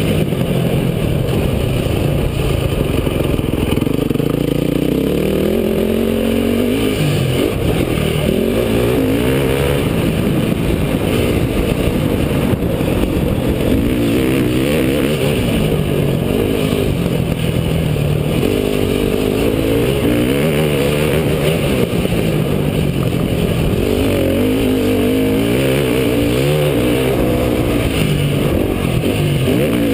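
Motocross dirt bike engine being ridden hard, revving up and dropping back again and again as the rider accelerates, shifts and slows for turns.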